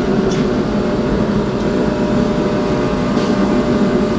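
A loud, steady mechanical drone of a running motor, holding an even pitch with no change.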